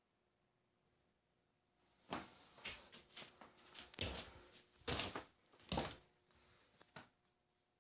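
A quiet start, then about seven irregular short knocks and rustles over the next five seconds.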